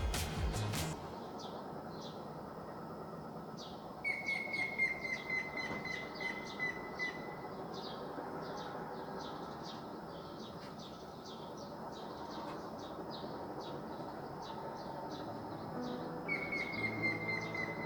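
Birds chirping: many quick short chirps, with a long, slowly falling high whistle that starts about four seconds in and comes again near the end, over steady outdoor background noise.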